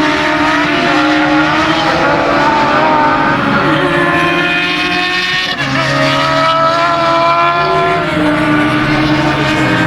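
Racing motorcycle engines running hard, several engine notes heard at once, their pitch stepping up and down with throttle and gear changes, with a brief dip about five and a half seconds in.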